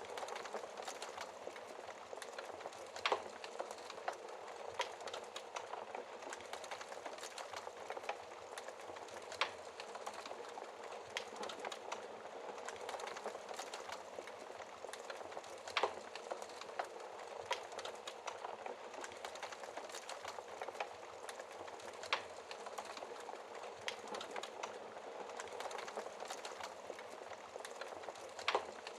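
Wood fire crackling in a fireplace: a steady hiss of burning with frequent small snaps, and a louder pop about every six seconds.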